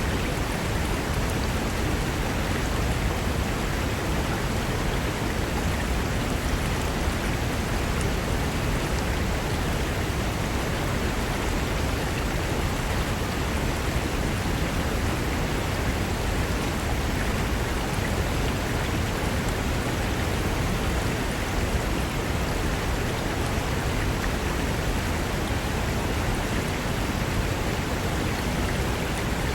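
Mountain river rushing over rocks: a steady, even roar of water with no breaks.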